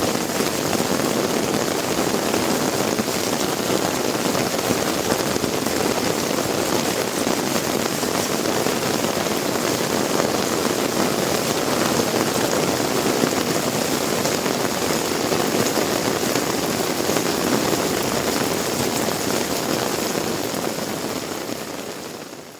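Heavy rain pouring steadily in a dense, even hiss, fading out near the end.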